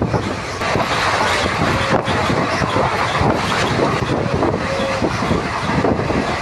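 Train running at speed, heard from an open coach door: wheels rumbling and clattering over the rail joints, with rushing air. Another train passes close by on the adjacent track.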